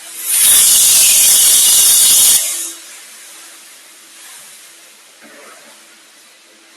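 AT3600 industrial vacuum's hose taking in a pile of screws: a loud rushing hiss that starts sharply and cuts off after about two seconds, followed by a faint steady hum.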